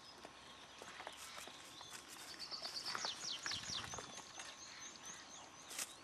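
A small songbird singing: a quick run of high chirps, then four fast falling notes, then a string of short rising notes, with light rustles and clicks throughout.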